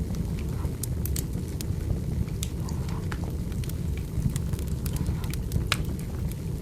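Wood fire burning: irregular sharp crackles and pops of burning firewood over a steady low rumble of the flames.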